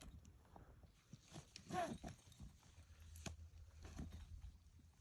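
Faint, scattered knocks and clicks of climbing gear being handled against rock, with a short voice sound about two seconds in.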